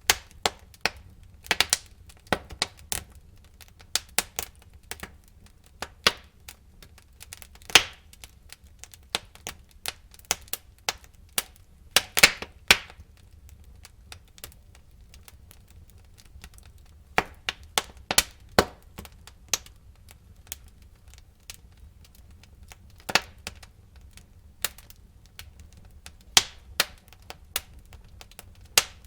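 Wood fire in a fireplace crackling, with irregular sharp pops and snaps over a low steady rumble of the flames; a few louder pops come about 8 and 12 seconds in.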